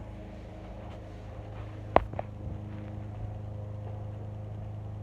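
1998 Hoover Soft and Light upright vacuum cleaner running with a steady motor hum, with a sharp knock about two seconds in and a lighter one just after.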